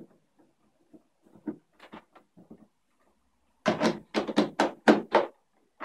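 Plastic filter parts of an Arçelik S 7424 bagless vacuum cleaner being handled and fitted: faint rustling and light taps, then a quick run of about seven sharp knocks and clicks over a second and a half, about midway through.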